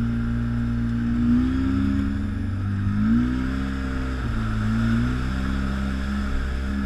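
ATV engine running as it rides a trail, its pitch rising and falling a few times with the throttle.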